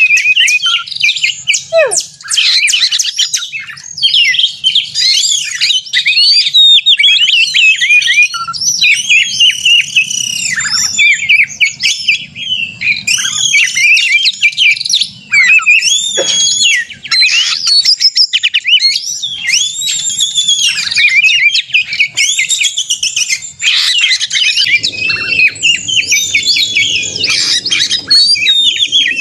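Oriental magpie-robin (kacer) singing without a pause in a loud, rapid run of varied whistles, chirps and harsh notes. This is the excited, combative 'narung' song that is played to provoke other magpie-robins into singing.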